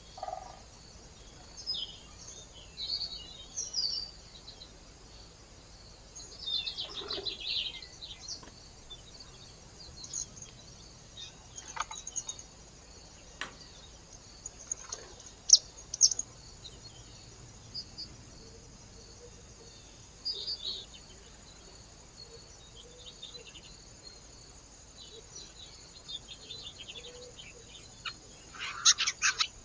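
Small songbirds chirping and calling: short, high chirps scattered throughout, with a denser burst of chirping near the end, and a couple of sharp taps near the middle.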